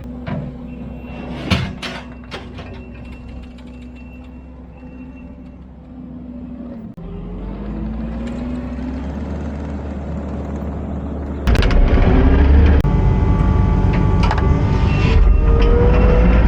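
Diesel engine of a Kubota SVL75-2 compact track loader running under work, with a few sharp metallic knocks early on and a rising pitch as it speeds up. About eleven seconds in, the engine suddenly becomes much louder.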